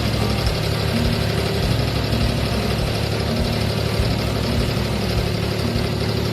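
An abra water taxi's diesel engine running steadily as the boat crosses the creek, with a low, even hum.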